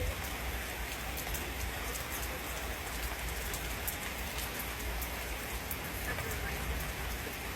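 Steady rain falling, with many sharp drop ticks over an even hiss and a steady low rumble underneath.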